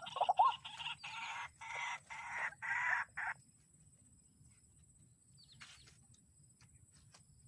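White-breasted waterhen calling: a run of harsh, repeated croaking notes, about two or three a second, which stops abruptly a little over three seconds in. A few faint clicks follow.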